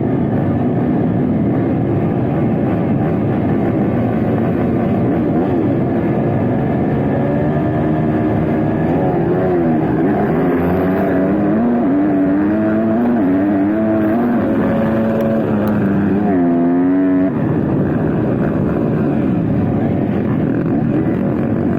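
Motocross bike engines revving during a race. A single bike's note rises and falls through the gears from about eight seconds in, then fades into the steady din of the other bikes about seventeen seconds in.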